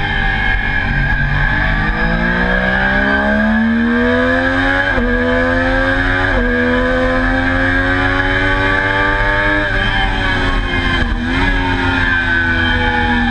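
Triumph Daytona sport-bike engine accelerating hard through the gears, with two quick upshifts about five and six and a half seconds in. The throttle shuts near ten seconds, with a downshift blip a second later, and it pulls up in revs again near the end. Heavy wind rush runs under it.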